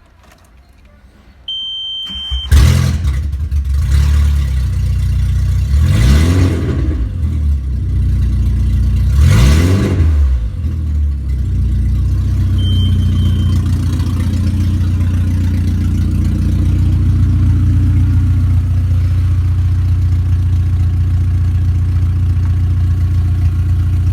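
Volkswagen Golf IV 1.6i (AKL) four-cylinder petrol engine starting about two and a half seconds in, after a short high beep. It is revved up and back down twice, then settles into a steady idle.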